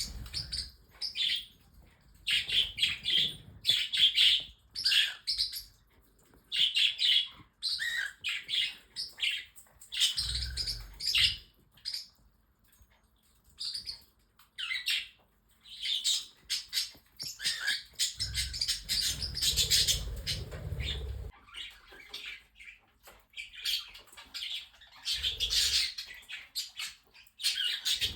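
Mixed flock of pet budgies, cockatiels and parrotlets chirping and chattering in quick bursts of high calls with short pauses between. There are a few stretches of low rumble, around ten seconds in and again around twenty.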